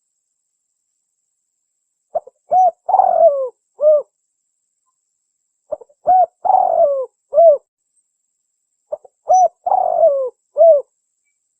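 Spotted dove (tekukur) giving its cooing lure call: three phrases about three and a half seconds apart. Each phrase is a few short coos around one longer, rolling middle coo.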